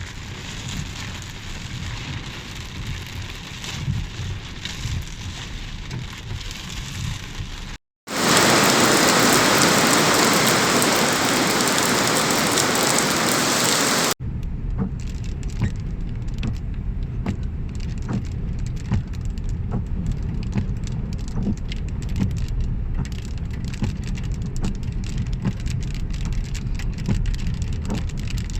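Rain falling, in three clips cut together. The middle clip, about six seconds long, is a much louder, dense hiss of heavy downpour; the clips either side are quieter rain with a low rumble under it.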